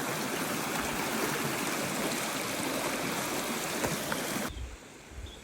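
Steady rushing noise, cutting off suddenly about four and a half seconds in.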